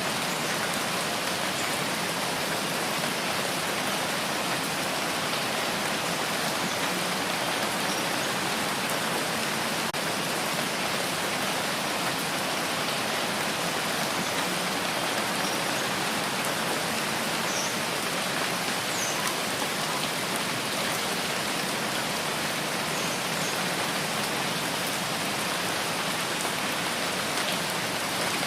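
Steady rain falling, an even hiss of drops with a few faint, brief higher drip ticks.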